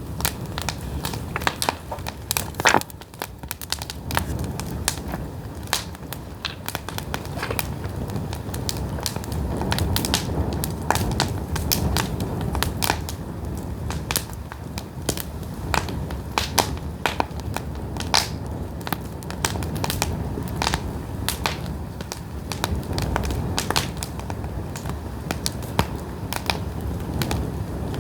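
Pine firewood burning, crackling with irregular sharp pops and snaps over the steady low rush of the flames.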